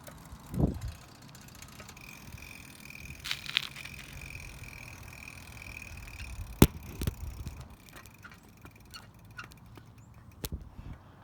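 Sounds of riding a bicycle with a phone held in one hand: a low wind rumble on the microphone, a steady high whine lasting several seconds, and sharp clicks, the loudest about six and a half seconds in.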